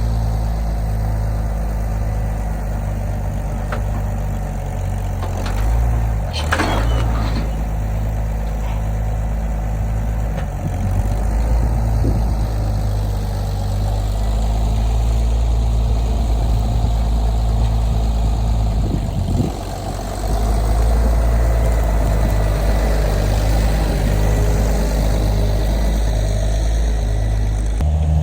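A vehicle engine running steadily, with a brief rattle about six and a half seconds in and a short dip near twenty seconds.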